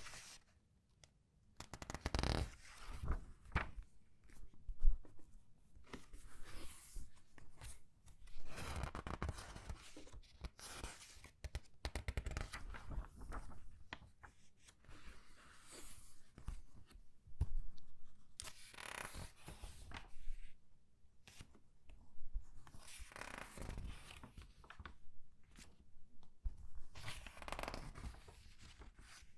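Thin newsprint comic book pages being turned and squeezed by hand. The rustling swishes and crinkles come back every few seconds, with small taps and crackles between them.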